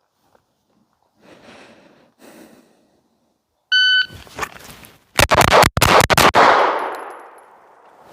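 A shot timer beeps once, and about a second and a half later a Walther PDP pistol fires six rapid shots about a fifth of a second apart. This is a bill drill from the draw, and the echo dies away after the last shot.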